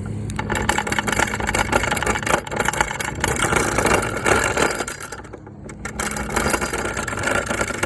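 Small ride-on car being driven in tight turns over rough ground: a loud, continuous rattle of wheels and body over the motor's hum. It eases off briefly a little past halfway, then picks up again.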